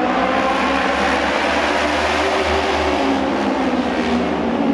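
Auto race motorcycles running around the oval, a dense engine noise that swells and eases as the pack goes by.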